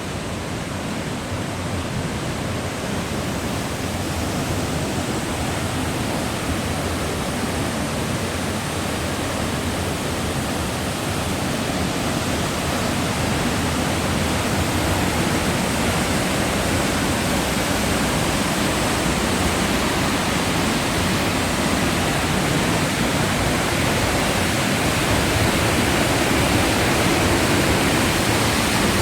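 Steady rushing of the Kozjak's falling water, an even wash of noise that grows gradually louder.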